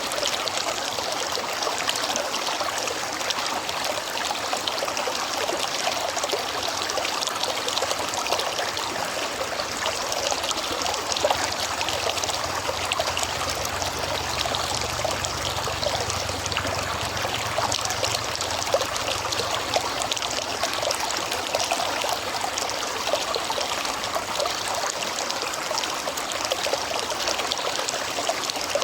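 River water flowing and trickling in a steady, even rush. A faint low rumble comes in for a few seconds in the middle.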